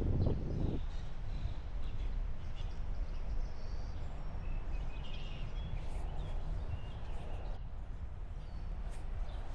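Faint bird chirps scattered over a steady low outdoor rumble.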